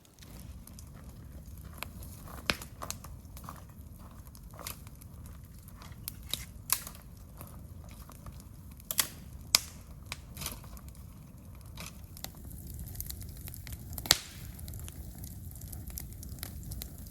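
Wood campfire crackling, with irregular sharp pops and snaps over a low steady rumble; the loudest pops come about two and a half seconds in, twice around nine seconds, and near fourteen seconds.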